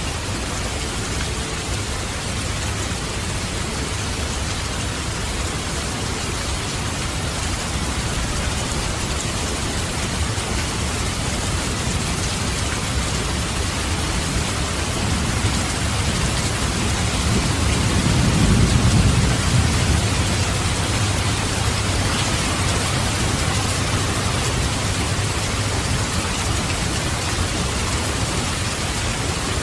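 Steady heavy rain, with a roll of thunder that swells up and peaks a little past the middle, then fades back into the rain.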